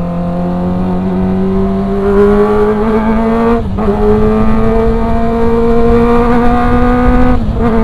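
Kawasaki ZX-25R's 250 cc inline-four engine running at high revs while riding, its pitch slowly rising, with two brief dips about three and a half and seven and a half seconds in.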